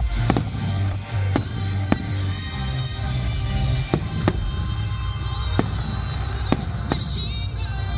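Aerial fireworks bursting in sharp single bangs, roughly one a second, over loud show music with a heavy, steady bass beat.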